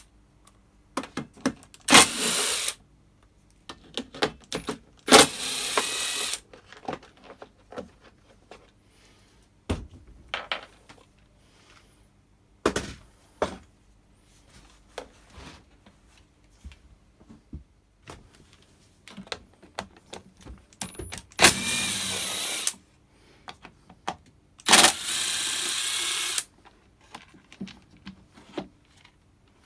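Cordless impact driver hammering in four short bursts, undoing screws from a blower's plastic housing, with small clicks and clatters of screws and parts being handled in between.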